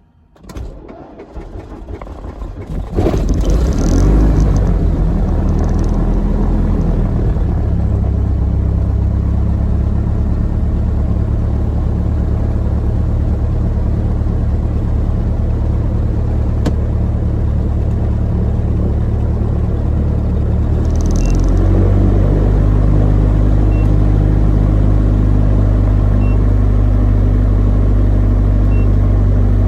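Mooney M20J's four-cylinder Lycoming IO-360 engine being started after the "Clear?" call. The starter cranks for a couple of seconds and the engine catches about three seconds in, then settles into a steady run. About 21 seconds in the engine speed changes and it runs slightly louder.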